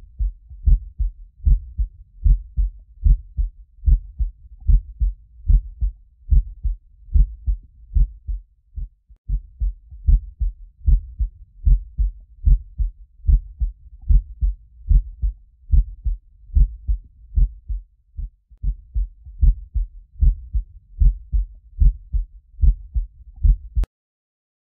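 Heartbeat sound effect: steady low thumps, a little over one a second, which start suddenly and cut off shortly before the end.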